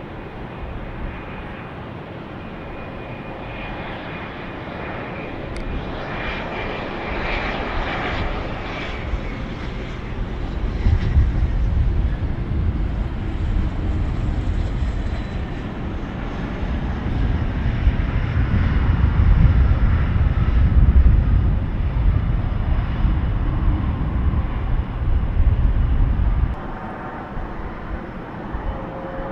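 Airliner's engines passing close by: a rumble that builds and grows loudest over the middle of the stretch, with a faint falling whine above it. The low rumble cuts off abruptly near the end.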